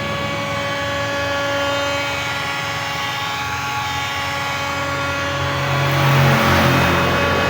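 Hot-air gun running: a steady motor whine over rushing air, the air noise growing louder about six seconds in.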